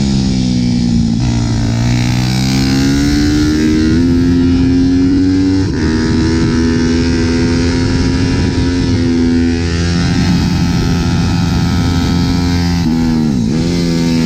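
Pit bike's Daytona 190 cc single-cylinder four-stroke engine at racing revs on a circuit lap. The note drops and then climbs through the gears, breaks briefly at a gear change about six seconds in, and dips sharply before climbing again near the end.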